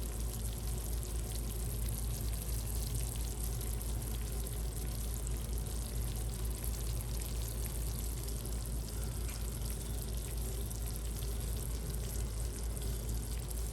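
Food sizzling in a pan: a steady crackling hiss over a low hum.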